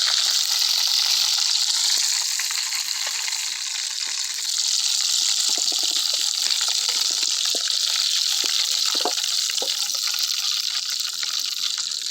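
Fish frying in hot oil: a steady sizzle with faint scattered crackles.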